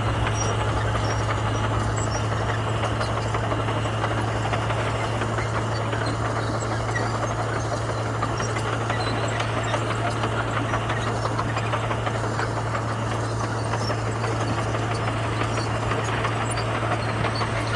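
Komatsu bulldozer's diesel engine running steadily, a constant low drone with no change in pitch.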